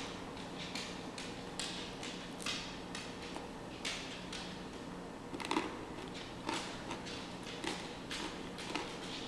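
A person chewing a bite of chocolate butter crunch truffle: irregular soft crunches and mouth clicks a few times a second.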